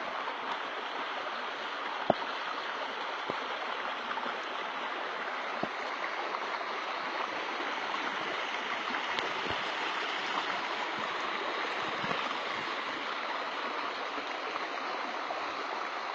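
River water rushing steadily over its bed, with a sharp tick about two seconds in and a few fainter ones later.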